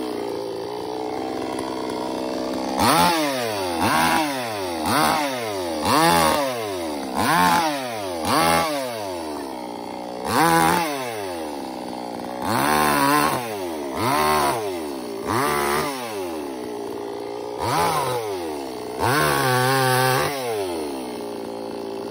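Chainsaw engine idling and revved in short throttle bursts, about a dozen times. Each time the pitch jumps up and drops back to idle.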